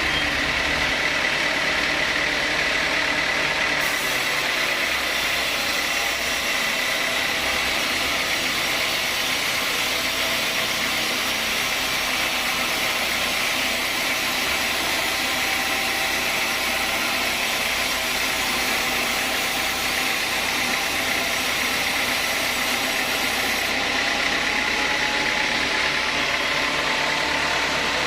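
Sawmill saw machinery running steadily: a constant loud mechanical noise with a steady high whine.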